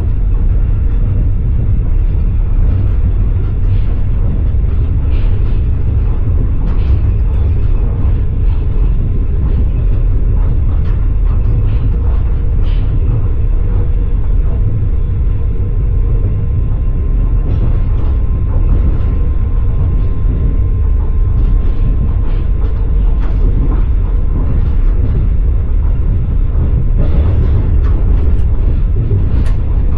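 Passenger train running, heard from inside the carriage: a steady low rumble of the wheels on the rails, with scattered light clicks and knocks from the wheels and the car.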